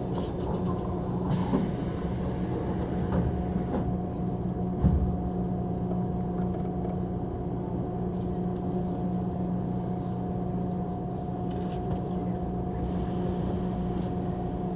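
Inside a JR 185 series electric multiple unit running along the line: a steady rumble with a constant hum, and a single sharp thump about five seconds in.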